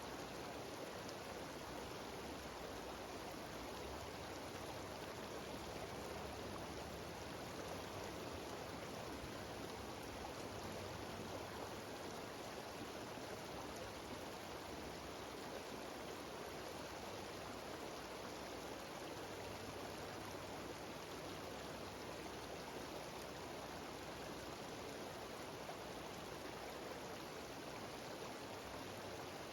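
Steady rush of a mountain waterfall, water cascading down a rocky stream.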